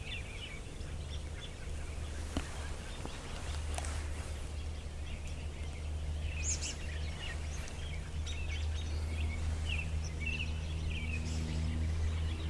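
Small birds chirping now and then over a steady low outdoor hum; a faint droning tone joins in about nine seconds in.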